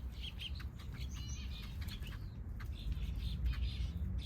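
Small aviary birds chirping in many short high notes, with quick wing flutters as they bathe in a bird bath, over a low steady rumble.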